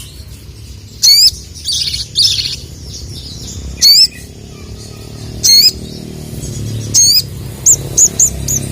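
Sogon (sogok ontong) bird calling loudly with short, sharp, high-pitched 'cuit' notes, one every second and a half or so. A brief chatter follows the first call, and a quick run of short notes comes near the end.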